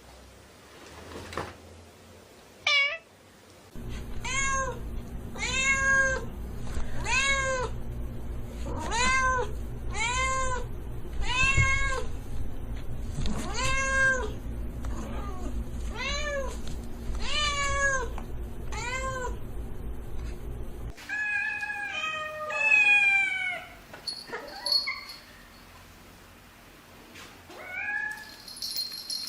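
Domestic cat meowing over and over, about a dozen short meows a little over a second apart, each rising then falling in pitch, over a low steady hum. The hum stops about two-thirds of the way in, and a few different, longer meows follow.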